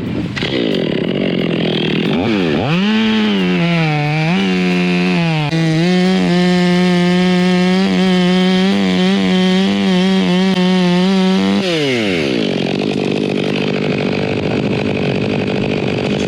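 Electric chainsaw cutting a piece of rotten maple. The motor winds up about two and a half seconds in and dips in pitch twice as the chain bites. It then runs steady and winds down when the trigger is released about twelve seconds in.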